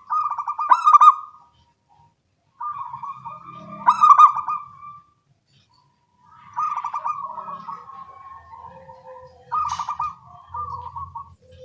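Zebra doves (local perkutut) cooing and answering one another: four rolling coo phrases with fast trilled notes, separated by gaps of about a second.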